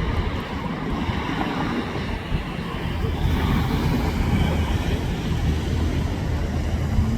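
Helicopter flying low and slow overhead: a steady, dense rumble of rotor and engine.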